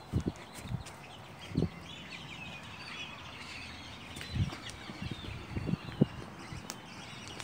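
Birds chirping in the background, many short twittering calls, with several low thumps mixed in. The loudest thump comes about six seconds in.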